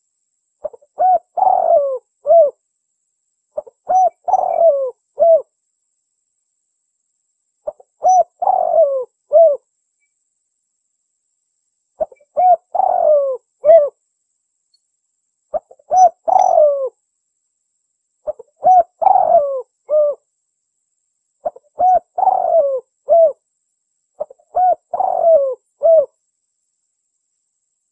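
Spotted dove (tekukur) cooing in repeated phrases about every three to four seconds: each phrase is a short coo, a longer falling coo and a short closing coo, eight phrases in all. It is a recording of a champion contest bird's call, used as a lure to draw wild spotted doves.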